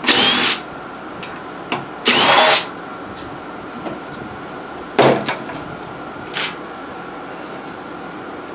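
Hand tools being handled while a socket extension is changed: two short rasping bursts about two seconds apart, then a sharp metal clank about five seconds in and a lighter one after it, over a steady faint hum.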